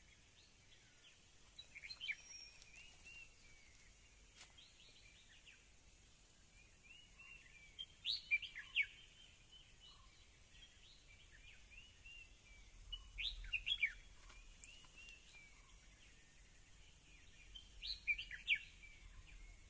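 Wild birds calling in the trees: a steady scatter of faint high chirps, with louder bursts of short, quickly falling calls four times, about every five seconds.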